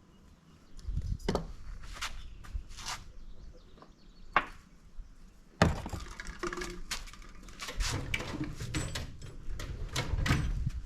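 Metal tools and engine parts being handled, with scattered clinks and knocks. A sharp knock about five and a half seconds in is followed by a busier run of clicking and rattling.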